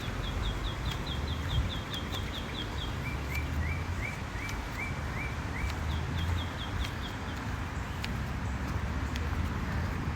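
A songbird singing quick runs of short, repeated chirping notes, about five a second. One run drops to a lower pitch partway through, and a higher run returns around six seconds in. A steady low rumble runs underneath.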